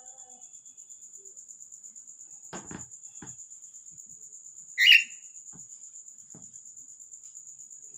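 A pet cockatiel gives one short, sharp chirp about five seconds in, the loudest sound here. A few soft taps come before it, over a steady high-pitched tone.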